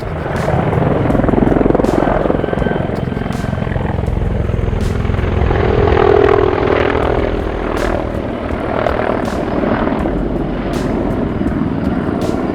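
Military helicopter flying: steady engine and rotor noise with a heavy low rumble.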